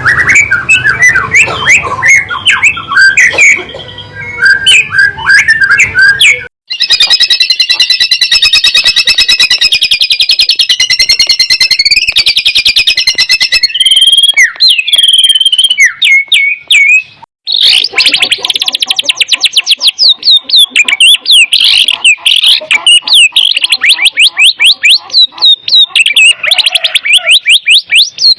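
White-rumped shama (murai batu) singing loudly in fast, varied whistled phrases and rapid trills. The song is edited together, breaking off abruptly twice, about a quarter and about three fifths of the way in.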